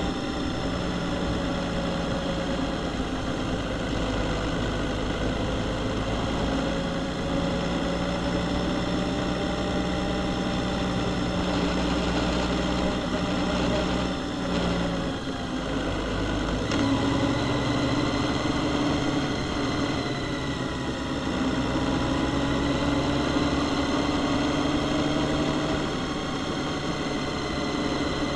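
Honda Gold Wing touring motorcycles' engines running at a steady cruise, a continuous drone that slowly rises and falls a little in pitch. The sound shifts abruptly about 17 seconds in.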